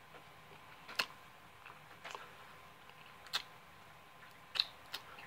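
Close-up eating sounds: a few short wet mouth clicks and smacks while chewing soft creamy chicken and egg noodles, spaced about a second apart, with two close together near the end.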